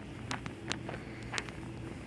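About five sharp clicks and taps over a steady low hum.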